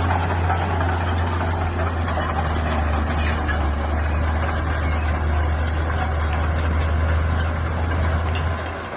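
Heavy earthmoving machine's diesel engine running steadily with a deep, even drone, a few light clicks over it.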